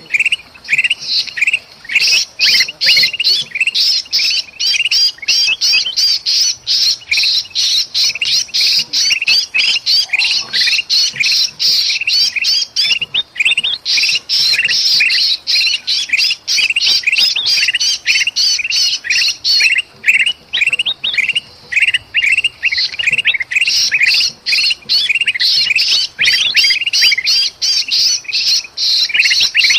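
Bulbuls (kutilang emas and kutilang) in an agitated, noisy chorus of rapid harsh chattering calls, with the distress calls of a trapped bulbul: a lure recording used to draw birds in. The chatter thins briefly about twelve seconds in and again around twenty-one seconds.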